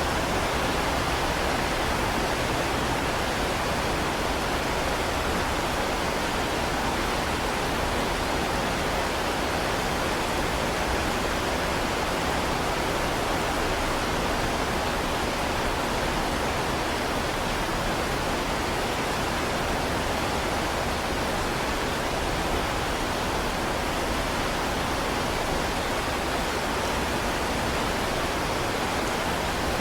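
Heavy rain falling as a steady, even hiss with no breaks or separate sounds.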